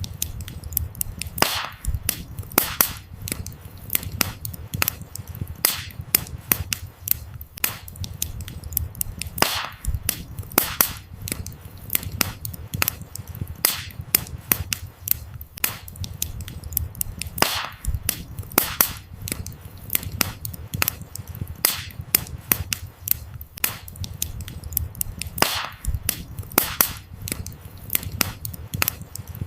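Wood fire burning: irregular sharp crackles and pops from the firewood, a few louder snaps among many small ones, over a steady low rumble of the flames.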